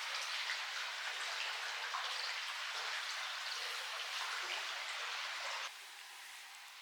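Campfire crackling and popping, a dense spatter of small snaps. It drops off abruptly a little before the end.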